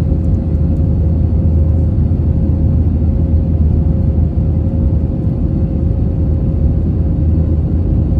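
Cabin noise inside an Airbus A321 with its IAE V2500 turbofan engines running: a steady, loud, deep rumble with a steady mid-pitched hum on top.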